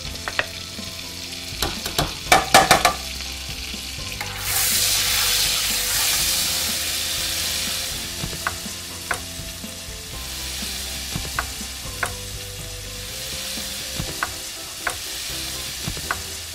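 Butter sizzling as it melts in a hot enamel pan, with a spoon clicking against the pan. The sizzle jumps louder about four and a half seconds in, then slowly dies down.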